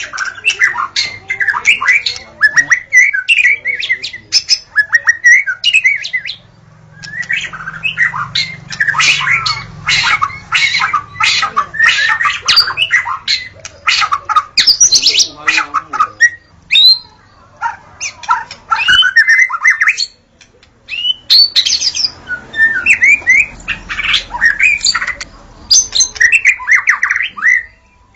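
White-rumped shama (murai batu) singing: fast, varied runs of whistles, chatters and sharp clicks in long phrases, with short breaks between them.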